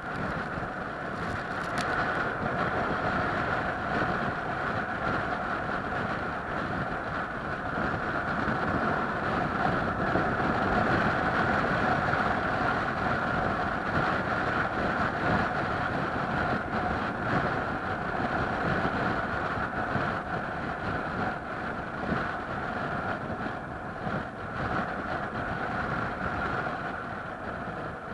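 Steady running noise of a moving vehicle: a continuous rumble with a steady two-tone hum, swelling slightly around the middle.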